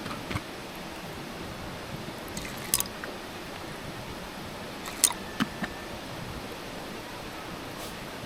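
A few sharp clicks and knocks of small objects being handled, the loudest about five seconds in, over a steady background hiss.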